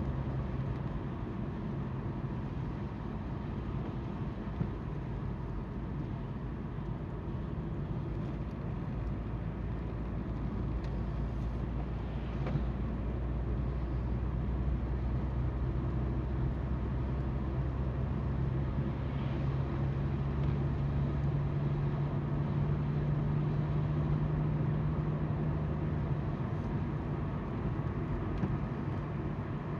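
Car driving on a wet road, heard from inside: a steady low engine hum under the rushing of the tyres, the hum growing a little stronger past the middle.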